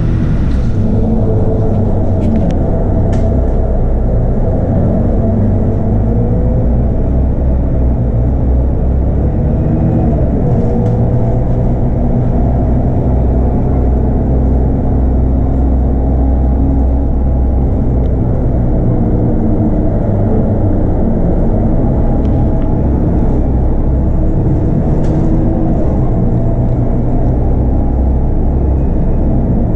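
Scania DC9 five-cylinder diesel of a Scania K230UB bus with ZF Ecomat automatic gearbox, running steadily under way, heard from on board; a steady low drone whose pitch drifts slightly, with a few faint rattles.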